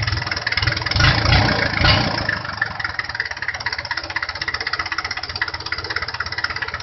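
Mitsubishi 4D30 four-cylinder diesel engine running with a rapid, even knock. It runs louder for about a second near the start, then settles to a steady idle.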